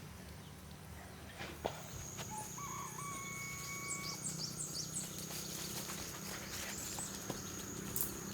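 A rooster crowing once, a single held call lasting about a second and a half that starts a few seconds in, over a steady high thin whine and scattered light knocks.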